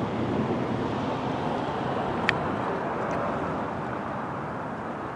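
Steady rushing wind ahead of an approaching thunderstorm, with one short click about two seconds in.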